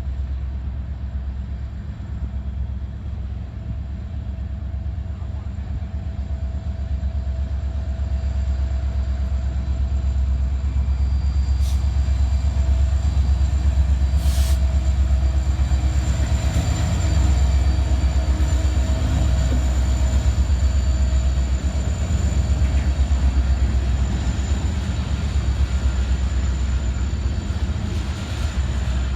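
Freight train passing, a steady heavy rumble of cars rolling on the rails that grows louder about ten seconds in, with a sharp click near the middle.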